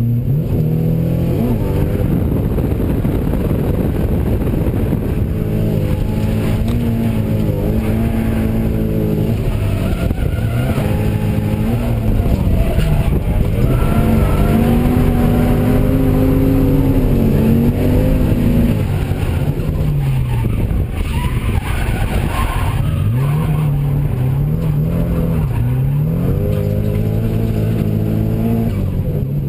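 Drift car engine heard from inside the cabin, revving up and falling back again and again as the throttle is worked through the corners, with tyres squealing as the car slides.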